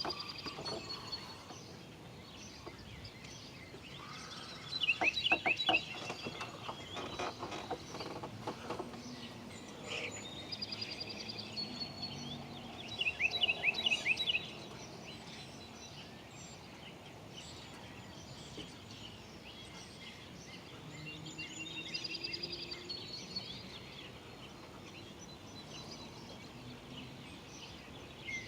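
Wild songbirds chirping and singing in a morning chorus: high trills and short calls, with two loud bursts of rapid falling notes at about five and thirteen seconds in, over steady background noise.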